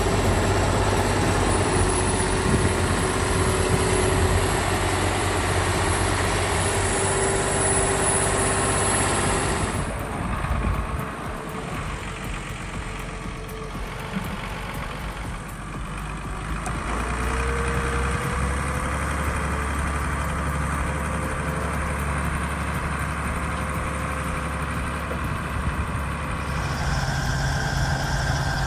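Heavy tractor engine running steadily. The sound changes abruptly about ten seconds in, and twice more later on.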